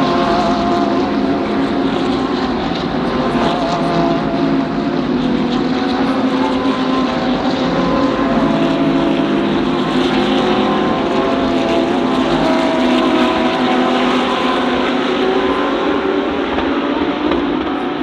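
GT3 race car engines running at racing speed, several engine notes sliding slowly up and down together in a steady, loud blend.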